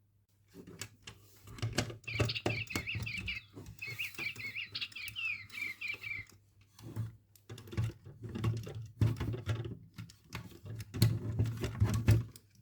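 An electronic toy bird chirping and warbling for about four seconds, amid repeated clicks, taps and rustles of the toy being handled. After the chirping stops the handling clicks carry on to the end.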